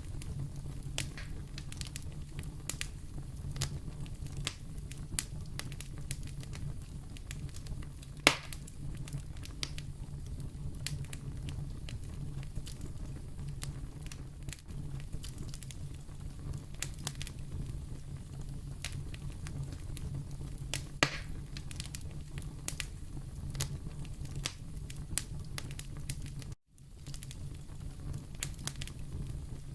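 Wood fire burning in a fireplace: a steady low rumble with scattered crackles, and two louder pops about eight and twenty-one seconds in. The sound drops out for a moment near the end.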